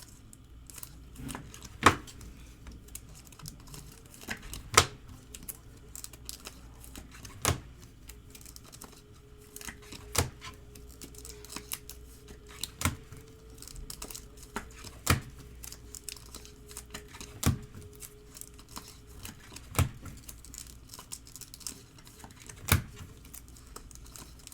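Trading card packs and chrome cards being handled on a table: wrapper crinkling and tearing, with a sharp card click about every two and a half seconds as cards are flipped through and set down.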